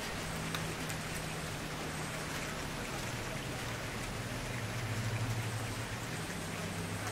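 Campfire burning: a steady hiss of the fire with scattered small crackles and pops, over a low steady hum.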